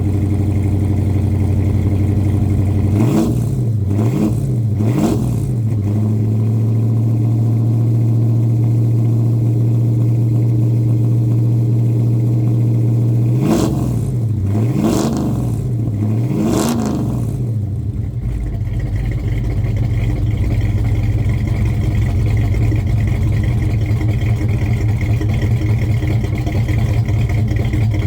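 1970 Chevelle's engine idling after a cold start, blipped a few times about three seconds in and three more times around the middle, each rev rising and falling quickly before it settles back to a steady idle.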